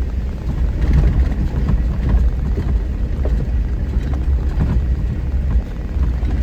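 Four-wheel-drive vehicle crawling over a rocky trail: a steady low rumble of engine and tyres, with a few knocks and rattles as it jolts over the rocks.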